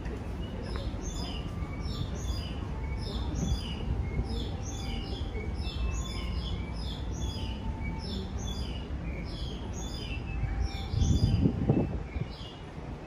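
Small birds chirping continuously, a quick stream of high, downward-sliding chirps, over a steady low background rumble. A brief louder low noise comes near the end.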